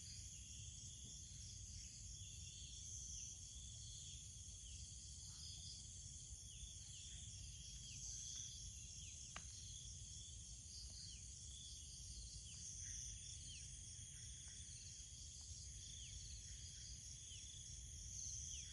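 Insects, such as crickets, trilling steadily at a high pitch, with many short falling chirps scattered throughout and a faint low rumble underneath.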